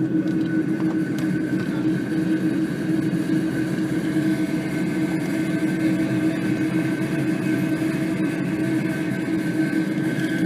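Airbus A300-600 jet engines running steadily, heard from inside the passenger cabin as an even drone with a constant hum and a faint high whine.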